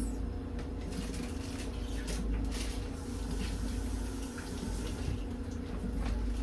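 Steady low kitchen hum with faint scattered clicks and taps of handling at the counter.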